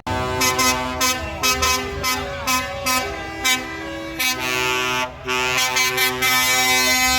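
Truck air horns sounding a run of held notes, several pitches at once, changing note about every half second.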